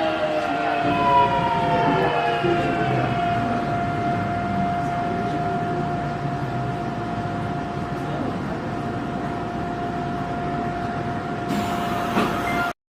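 Subway train's VVVF traction inverter and motors whining, several tones gliding down in pitch as the train slows, then settling into one steady tone over the rumble of the running train. The sound cuts off abruptly near the end.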